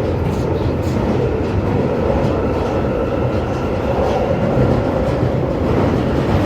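London Underground Northern Line tube train running between stations: a loud, steady rumble of wheels on rail with a faint motor whine, and a few clicks from the track in the first second.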